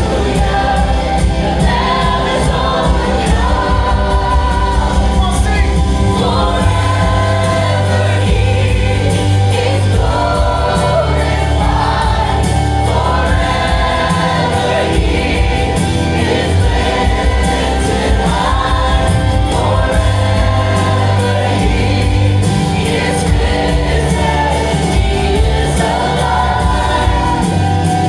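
A choir and band performing a gospel worship song: sung lines held over a steady bass accompaniment.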